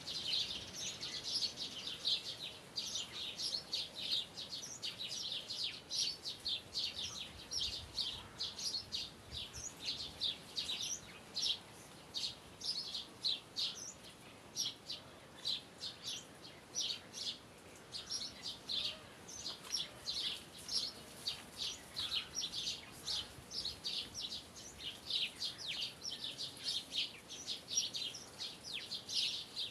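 Small birds chirping without pause, a quick, irregular stream of short high chirps.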